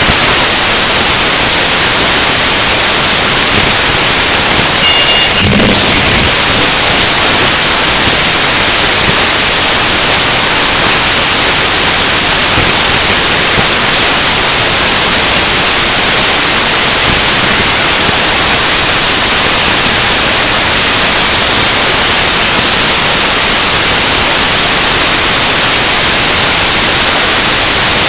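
Harsh noise music: a loud, steady wall of hiss-like static filling the whole range, with a brief crackling disturbance and short high beeps about five and a half seconds in.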